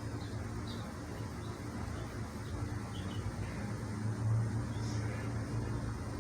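Small birds giving short, high chirps several times over a steady low hum.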